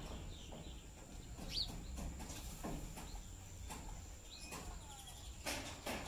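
Birds giving a few brief, high rising chirps, with a faint steady high whine in the background. A short rustle near the end is the loudest sound.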